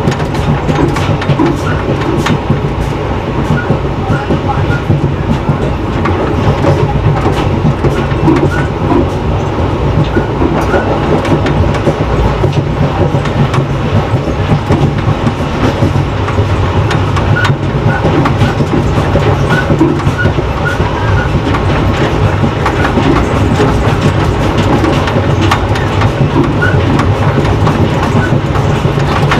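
Express passenger train running steadily along the track, heard from on board: a continuous rumble with wheels clacking over rail joints.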